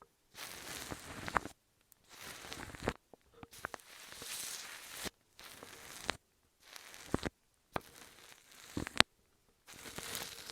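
Close-miked ASMR handling sounds: scratchy crinkling and rustling in a string of short bursts, broken by brief silences, with sharp clicks.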